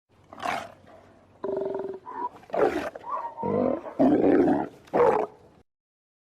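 Sea lion calling: a run of about six or seven hoarse barks and roars, with one longer, held note about one and a half seconds in.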